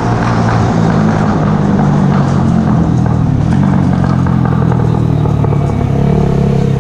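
Mash Café Racer 125cc single-cylinder engine running through a Megaton aftermarket exhaust, holding a fairly steady pitch.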